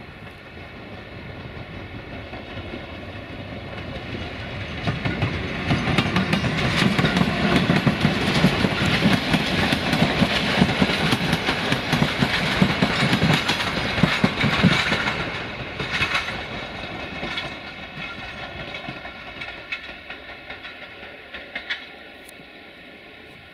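Train passing close by: the sound builds over a few seconds, then wheels clatter over the rail joints for about ten seconds before it fades away with a few last clicks.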